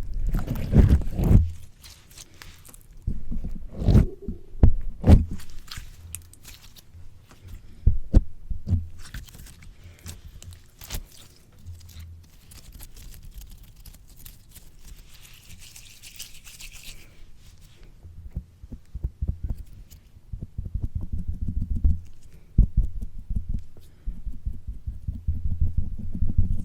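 Slime squished and pressed directly on a microphone: irregular low, muffled thuds with sticky crackles and pops. It is louder near the start and again in the last few seconds, with a brief hiss about halfway through.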